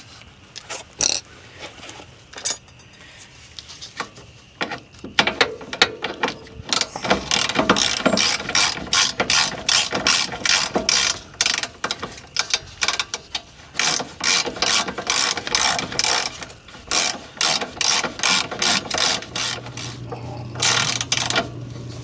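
Hand ratchet wrench clicking in long runs of quick strokes on the car's rear hub and brake hardware, with sparse clicks at first and a low steady hum coming in near the end.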